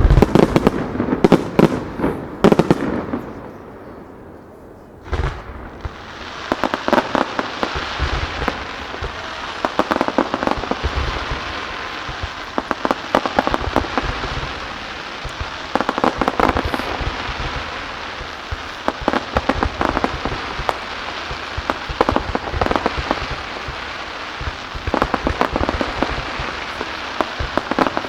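Aerial fireworks: heavy bursts in the first few seconds, a short lull, a single sharp bang about five seconds in, then a long stretch of dense crackling with repeated clusters of rapid pops.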